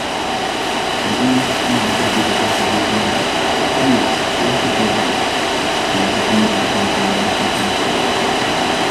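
Electric winch-driven seat lift on a John Deere tractor running steadily under load, a continuous motor whine over a rumbling drone, carrying a rider.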